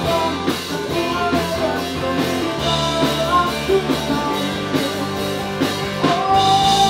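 Pop-rock band song with electric guitar, drum kit and a male lead vocal line; a long note is held near the end.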